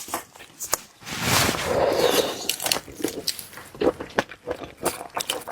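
Close-miked eating sounds from seafood being chewed: repeated wet clicks and smacks. A longer, louder noisy stretch starts about a second in and lasts about a second and a half.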